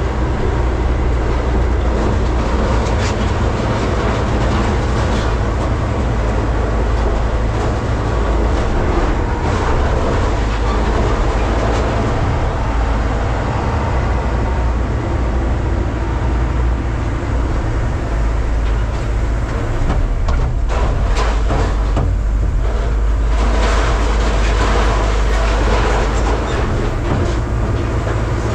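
Hydraulic scrap-metal baler running with a steady heavy rumble as it works, with a spell of metal clanking and crunching about two-thirds of the way through.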